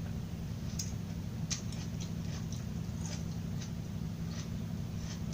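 Close-miked chewing of crunchy raw vegetables: small sharp crunches about twice a second over a steady low hum.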